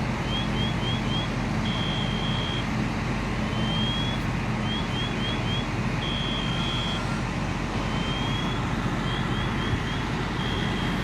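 An electronic alarm sounding in a repeating cycle of a rising sweep, three quick chirps and a held tone, about every four seconds, over the steady drone of running engines at a fire scene.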